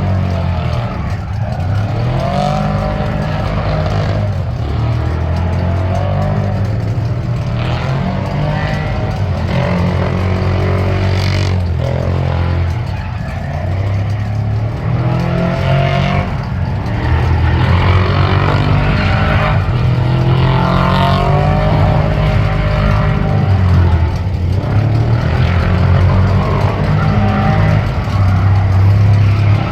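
Truck engine revving hard, its pitch sweeping up and down over and over, getting louder about halfway through.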